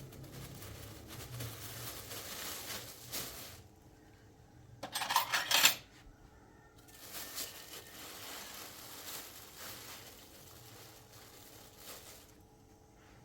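Brief burst of metallic clinking and jingling about five seconds in, over faint rustling and handling sounds.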